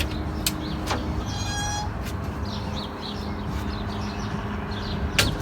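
Honda CR-V's B20 four-cylinder engine running steadily, with a few sharp clicks and a brief high chirp.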